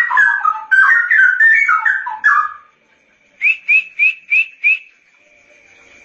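Straw-headed bulbul (cucak rowo) singing: a loud, fast run of rich, bubbling whistled notes lasting about two and a half seconds. After a short pause come five short, rising whistled notes in quick succession. A faint steady high tone runs underneath.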